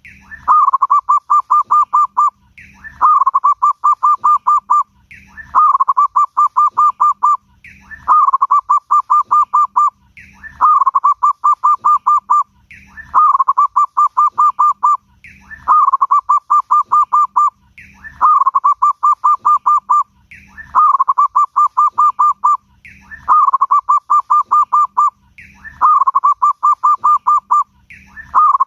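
Zebra dove cooing over and over, one phrase about every two and a half seconds. Each phrase opens with a short higher note and runs into a quick string of rapid coos.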